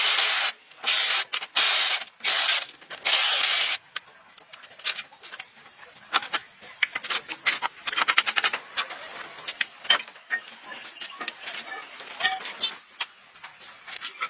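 About five short bursts of loud hissing spray in the first four seconds, then a long run of light clicks and metallic rattles from hand work on parts.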